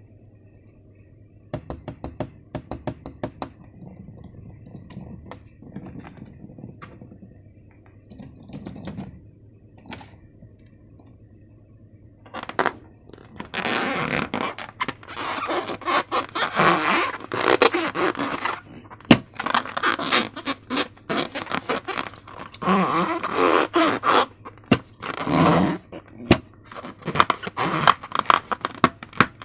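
Hands working slime and balloons: scattered light clicks and taps, then from about halfway on, long runs of loud, noisy strokes in quick succession.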